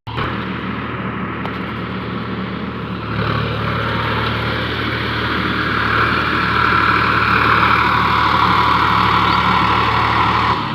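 Tractor diesel engine running hard under load, pulling in mud. It grows louder about three seconds in and louder again from about six seconds in.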